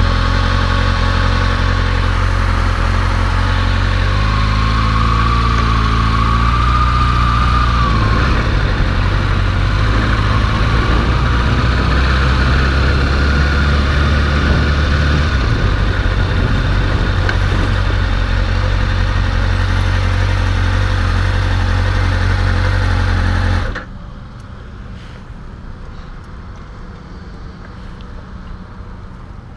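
Motorcycle engine running with a steady low tone that steps up and down in pitch a few times, then cuts off suddenly about three quarters of the way through, leaving quieter background noise.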